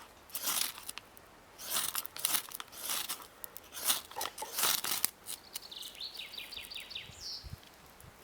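Ferro rod struck repeatedly with a steel scraper, about seven short rasping strokes over the first five seconds, trying to relight damp birch-bark tinder. Near the end a bird gives a quick run of chirps and a short rising call.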